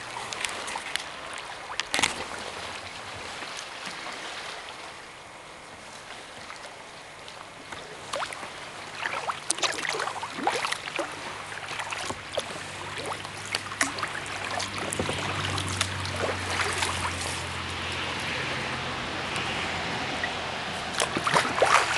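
Kayak paddle strokes splashing and water dripping off the blades, in irregular bursts over running water. A low steady hum joins about a third of the way in and fades near the end.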